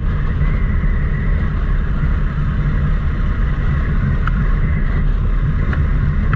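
Motorcycle on the move: steady wind rumble on the microphone mixed with engine and road noise, with a few faint ticks.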